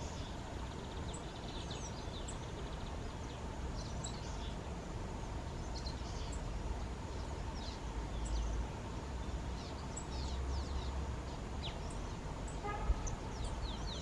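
Scattered faint, high, short bird chirps over a low steady background rumble, with one short louder pitched note near the end.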